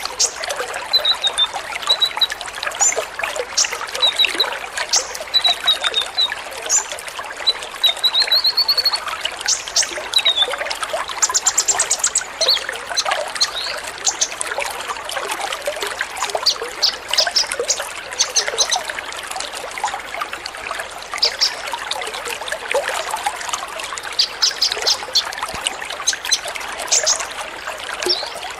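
Many kolibri ninja sunbirds chirping together, with short high chirps and whistles overlapping throughout, over a steady sound of trickling water.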